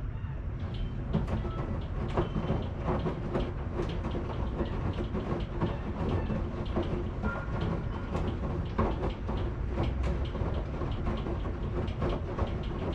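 Washing machine running, a steady low rumble with frequent irregular clicks and knocks as the drum turns.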